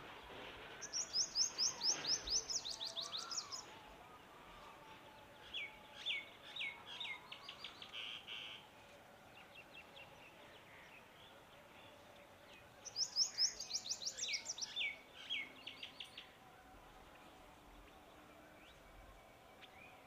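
A songbird singing in three bouts of fast, sharp, high notes: the first and last bouts start very high and step down to a lower run, and the middle bout stays on the lower notes.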